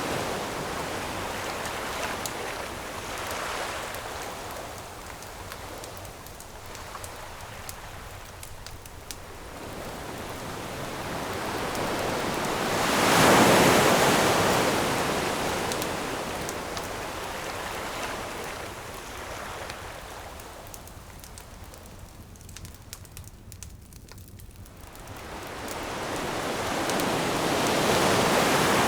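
Ocean waves washing onto the shore, rising and falling in two slow swells, the louder one about halfway through and another near the end. A campfire crackles quietly over them with scattered small pops.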